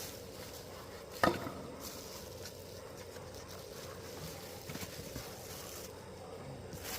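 A single sharp knock about a second in, followed later by a few light clicks and another knock near the end: parts and tools being handled and set down, over a faint steady hum.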